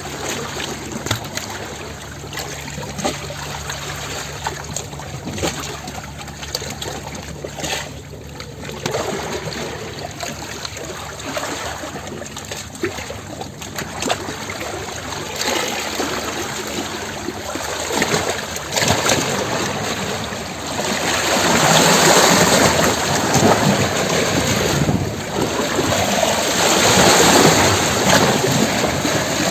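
Sea waves surging and washing against rocks, a continuous rush of water that swells louder about two-thirds of the way through.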